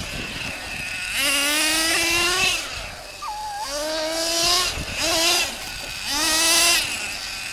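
Radio-controlled monster truck engines revving in three rising bursts, dropping back to a lower drone between them.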